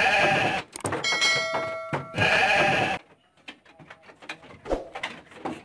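Two loud bleats from a goat or sheep, one at the start and one about two seconds in. Between them is about a second of bell-like ringing made of several steady tones.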